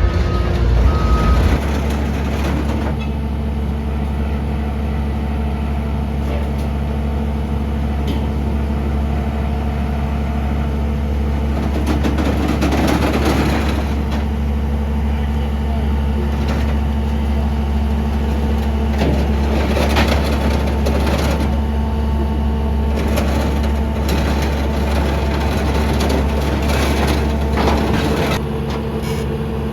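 An engine idling steadily with a constant low hum, with some clatter over it at times; the hum changes and drops slightly near the end.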